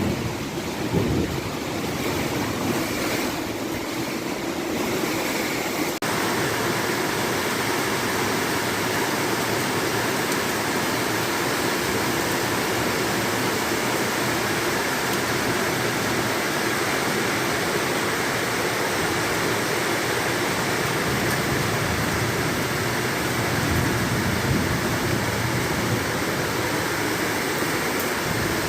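Heavy rain pouring down in a steady downpour, growing denser and a little louder about six seconds in.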